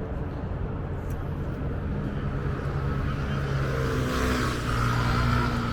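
A motor vehicle's engine running close by over street noise, growing louder from about two seconds in with a steady low hum.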